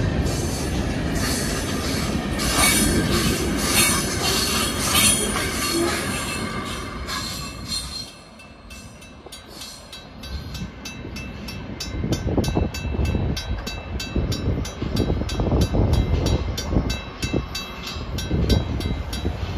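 A freight train of boxcars and hopper cars rolls past close by, its wheels squealing on the rails. About eight seconds in the train noise falls away, and a level-crossing warning bell rings rapidly, about four strokes a second, over a low rumble.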